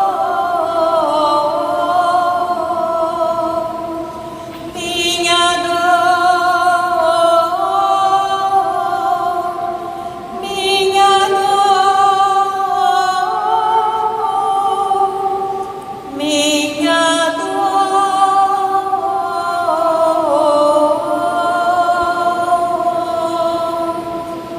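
Slow, sustained sung music, a choir-like vocal hymn in long held phrases, fading near the end.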